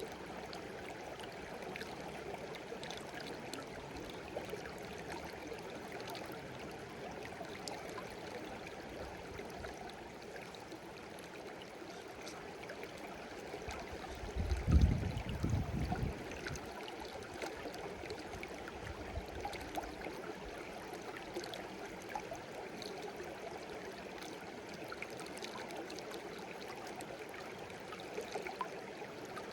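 Babbling brook running steadily, water washing and gurgling with small scattered drips and splashes. About halfway through there is a brief low rumble.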